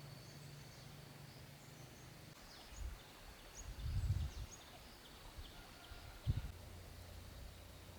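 Quiet outdoor ambience with birds chirping in short high notes over a faint steady high tone, and a few low thumps, the loudest about four seconds in.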